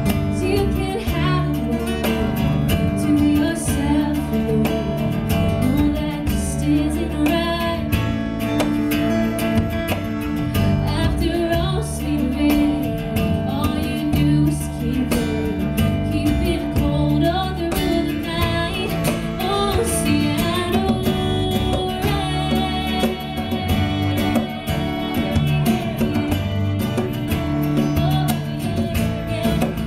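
A song played on acoustic guitar with a woman singing over it.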